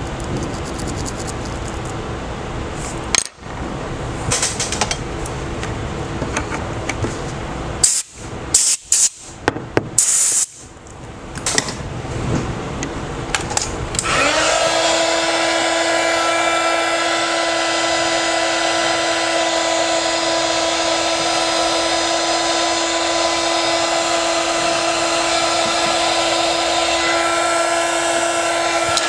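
A small electric tool running with a steady airy hiss, broken by a few short loud bursts and clicks. About halfway through, a steady high whine with overtones sets in and holds.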